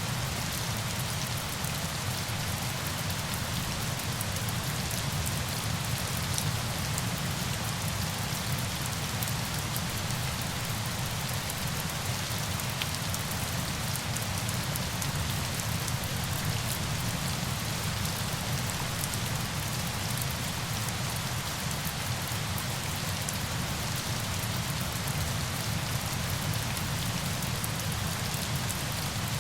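Steady falling water: an even rushing hiss over a deep rumble, with fine scattered drop ticks and no change throughout.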